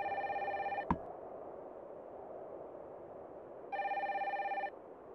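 Mobile phone ringing for an incoming call: two trilling electronic rings of about a second each, roughly three seconds apart. A single sharp click comes just after the first ring.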